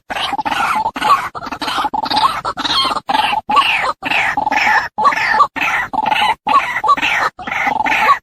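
Female white-breasted waterhen calling, a recording played as a bird-trapping lure. The call is a fast string of repeated notes that keeps on, broken again and again by short silent gaps.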